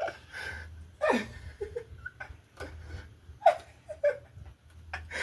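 Short wordless voice sounds and soft laughter from people, broken up by a few light clicks and knocks.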